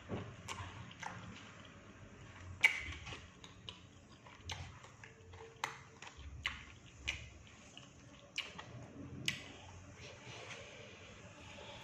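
A person eating batagor, fried fish dumplings, close to the microphone: chewing with irregular sharp clicks and taps. The loudest tap comes about two and a half seconds in.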